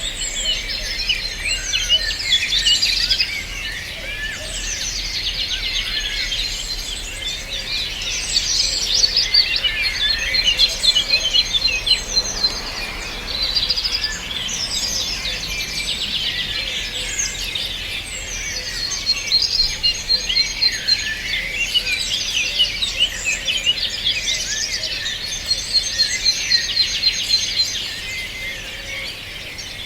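A chorus of many songbirds singing at once: dense overlapping chirps, whistles and rapid trills that swell and ebb in waves, with runs of quick repeated high notes.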